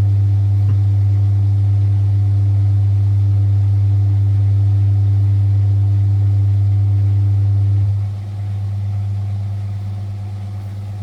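Frigidaire Super Deluxe Automatic 50 front-loading washing machine's induction motor humming steadily as the drum spins. About eight seconds in, the motor cuts out and the sound drops to a quieter run-down, which is typical of the pulsed spin.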